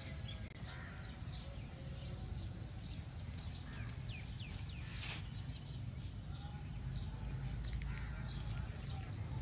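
Birds chirping in short, falling notes over a steady low outdoor rumble.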